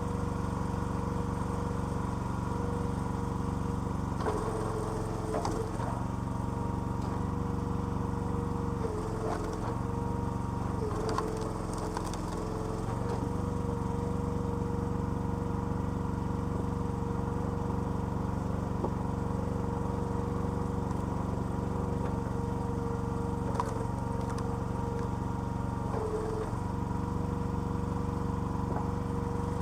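Small petrol engine of a hydraulic log splitter running steadily. Its note changes and deepens for a second or two at a time, several times, as the pump comes under load, with a few sharp cracks near those moments.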